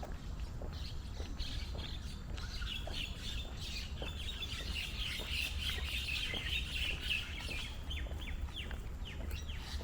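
Birds chirping and twittering in a dense, continuous chorus, ending in a run of short downward-sliding calls near the end, with faint walking footsteps at an even pace.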